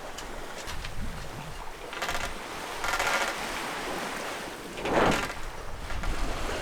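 Sea water washing and splashing against a sailboat's hull in several surges, the biggest about five seconds in, with wind on the microphone.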